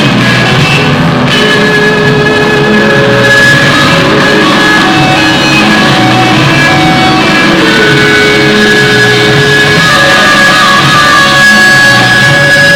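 Loud rock music led by guitar over drums, with long held notes and no vocals.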